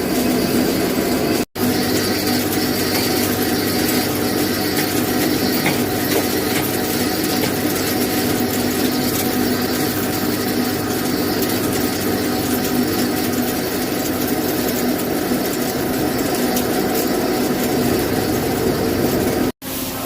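CNC lathe running, a steady mechanical hum with several held tones over a hiss. It cuts out for an instant about a second and a half in and again near the end.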